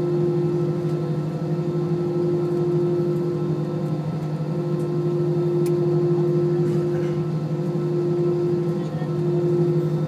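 Steady drone of an Airbus airliner's Rolls-Royce jet engines heard inside the passenger cabin, a constant hum with a couple of held tones and no change in pitch.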